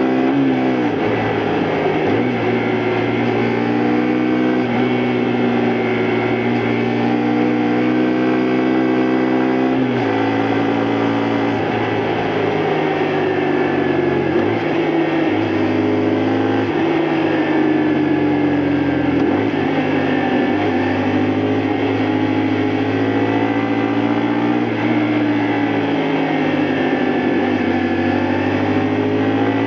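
Honda Varadero 125's small V-twin four-stroke engine running under load while riding. Its pitch dips sharply about a second in, shifts around ten seconds in, then falls slowly and climbs again in the second half.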